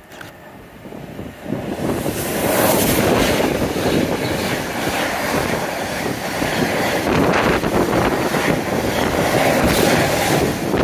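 A train passing close by: its rolling noise rises sharply about two seconds in and stays loud and steady.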